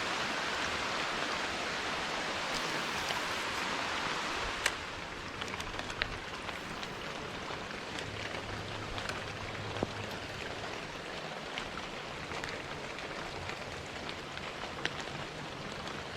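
Rain falling on the creek water, a steady hiss. About four and a half seconds in a sharp tick sounds and the hiss turns lighter, with single drops ticking now and then.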